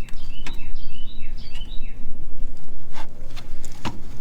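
A songbird singing a quick run of short, falling chirping notes over a steady low background rumble, followed by a few sharp clicks near the end.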